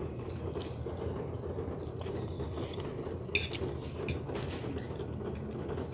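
Faint eating sounds: chewing and a few soft clicks of a utensil against a dish, over a steady low hum.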